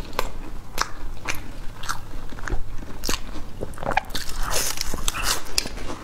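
Close-miked biting and chewing of a flaky egg-tart pastry crust: a quick run of crisp crunches, several a second.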